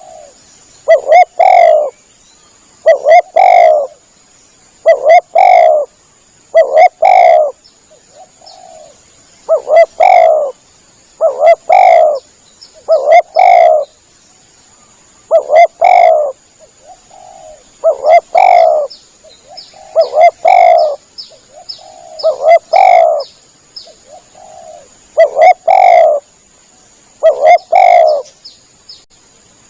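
Spotted dove (tekukur) cooing over and over, a loud, low phrase of coos about every two seconds with a few softer coos between. This is the dove's call played as a hunting lure to draw other doves in.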